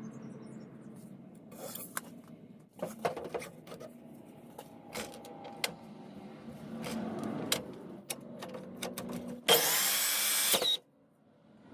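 Scattered clicks and knocks of wood and tools being handled, then a chop saw runs loudly for about a second and cuts off abruptly. Its blade is too dull to cut properly.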